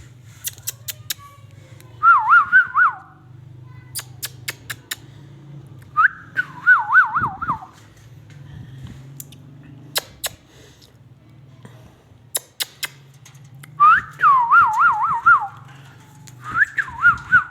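Four short bursts of trilled whistling, each a quick wavering run of notes around one pitch, with sharp clicks scattered between them and a faint low hum underneath.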